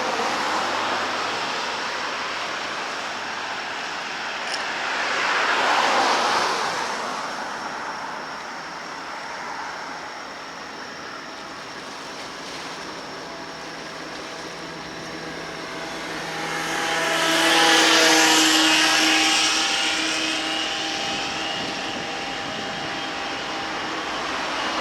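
Two motor vehicles pass close by one after another, about 12 seconds apart, each rising and then fading. The second is louder, with its engine tone dropping in pitch as it goes past.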